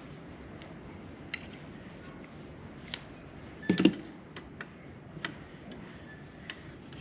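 Scattered light metallic clicks and taps of hand tools and small parts during disassembly of a table saw motor, with one louder clunk a little before the middle.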